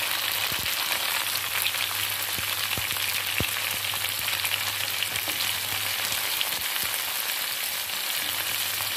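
Chopped tomatoes and sliced onions sizzling steadily in hot oil in a kadai, with a few light knocks in the first few seconds.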